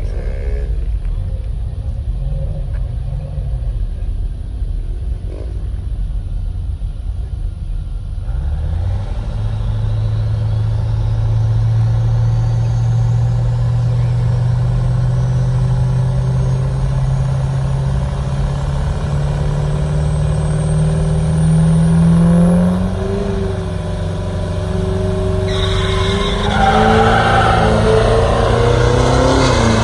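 Pickup truck engine running, then pulling up through a long, slow rise in pitch from about nine seconds in. The pitch drops off after about thirteen seconds, and near the end a loud, noisy rush joins the engine.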